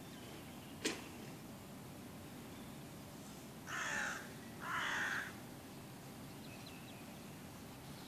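A bird giving two harsh calls about a second apart, each lasting about half a second, after a single sharp click.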